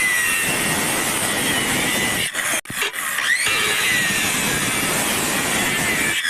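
Angle grinder grinding or cutting steel for an iron ventilator grille, a continuous grating whine whose pitch slides up and down as the disc is loaded. It breaks off briefly twice about two and a half seconds in.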